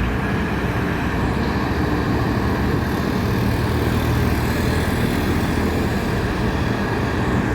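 Heavy truck's diesel engine running steadily under load, a continuous low drone with no breaks.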